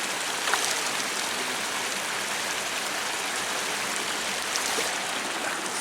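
Steady rushing of a flowing stream. There is a short sharp sound about half a second in and a fainter one about four and a half seconds in.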